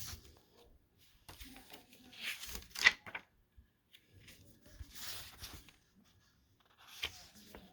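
CD booklet and case being handled: paper pages and plastic rustling in several short bursts, with one sharp click about three seconds in.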